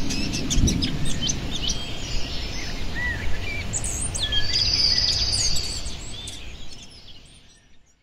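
Many birds singing and calling, with quick chirps and whistles, over a low rumble. It fades out over the last two seconds or so.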